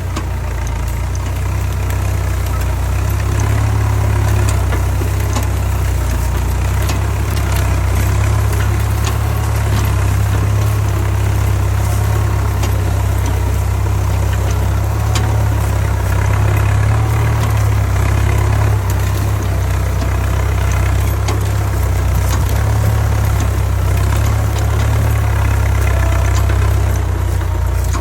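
Tractor diesel engine running steadily with a deep, low drone.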